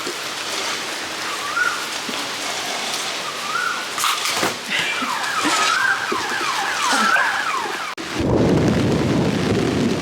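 Heavy rain pouring steadily. About eight seconds in, the sound suddenly turns deeper and louder.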